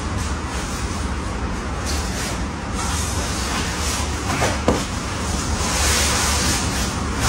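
Sleeping bag being handled and unpacked, its fabric rustling and swishing, louder in the second half.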